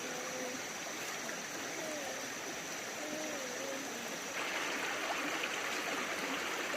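Flowing stream water, a steady rushing that gets louder about four seconds in.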